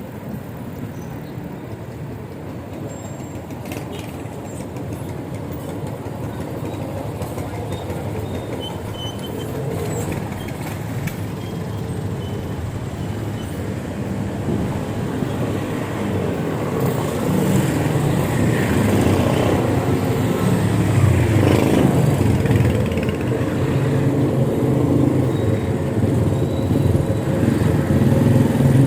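Street traffic noise, growing louder over the second half, with the hum of passing vehicle engines.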